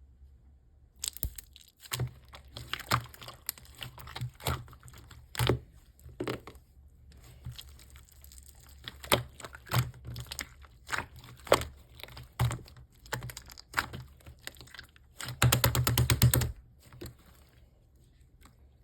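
Slime being squeezed and pressed by hand, giving irregular sharp clicks and pops, with a dense run of rapid crackling about three-quarters of the way through.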